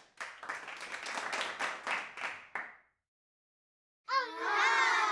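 A short burst of hand clapping lasting about three seconds, then after a second of silence a single drawn-out, wavering high-pitched cry.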